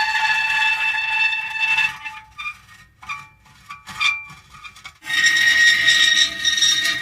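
Metal creaking: a long, high, strained squeal lasting about two seconds, then a few short, quieter creaks and ticks, and a second long squeal setting in about five seconds in.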